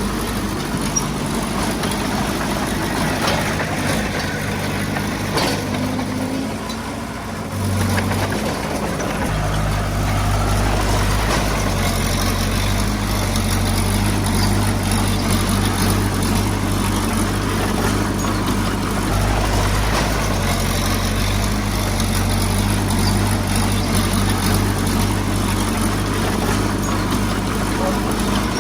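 Diesel engine of heavy earthmoving equipment running steadily. Its low drone drops back for a few seconds, then comes back stronger about eight seconds in.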